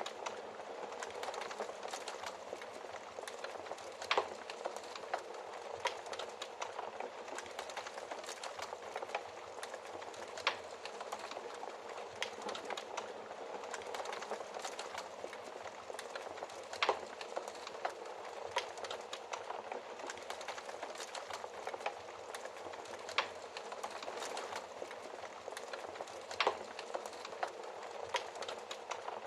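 Wood fire crackling in a fireplace: a steady hiss full of small crackles, with a handful of louder, sharp pops scattered through.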